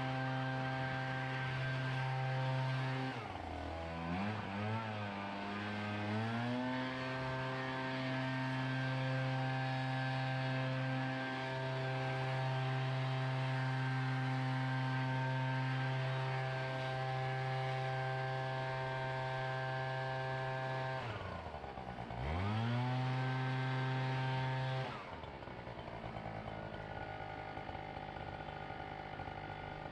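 Small gas engine of lawn equipment running at a high steady speed. Twice it is throttled down and revved back up, a few seconds in and again about three-quarters through, then it drops to a lower speed near the end.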